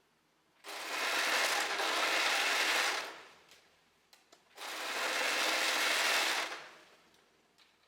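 Overlocker (serger) stitching the bottom hem of a jersey top in two runs of about two seconds each, stopping briefly between them while the fabric is moved around.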